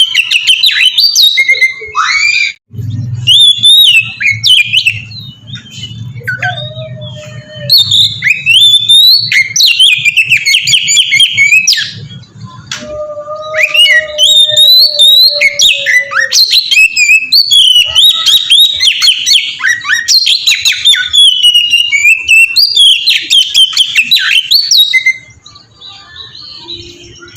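Oriental magpie-robin (kacer) singing loudly: rapid, varied phrases of high chirps, trills and sliding notes, broken by a few long steady whistled notes. The song falls away near the end.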